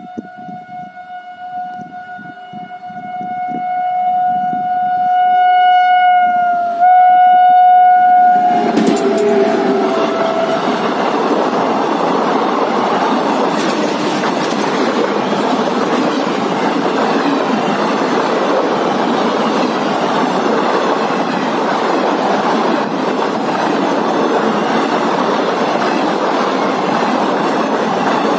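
Indian Railways WAP-7 electric locomotive sounding one long horn blast as it approaches at speed, growing louder, with the pitch dropping as it passes about nine seconds in. Then its empty passenger coaches rush past close by, a loud steady roar with wheel clatter on the rails.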